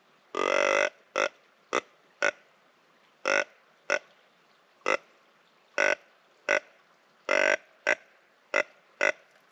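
Whitetail-deer-style grunts: about thirteen short, loud grunts at uneven intervals over some nine seconds, most a fraction of a second long, with a longer one about half a second in and another near three-quarters through, the rapid string of a rutting buck's tending grunts.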